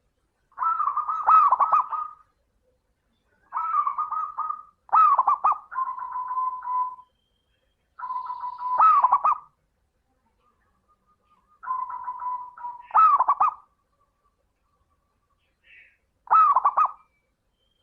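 Zebra dove (perkutut) singing its cooing song in six separate phrases. Each phrase is a quick run of coos around one pitch, with short pauses between phrases.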